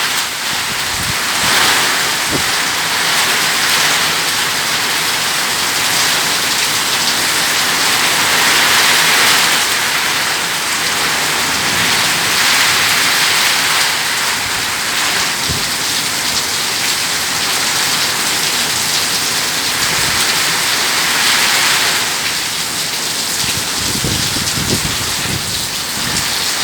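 Heavy rain pouring down in a thunderstorm, a dense hiss that swells and eases every few seconds, with a low rumble near the end.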